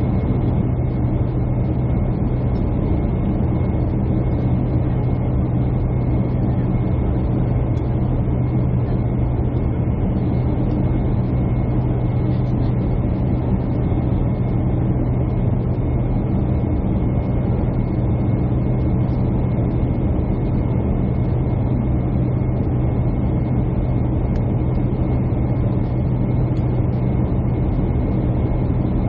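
Steady drone of a jet airliner heard inside the cabin: continuous engine and airflow noise with a strong low hum and a faint high steady tone.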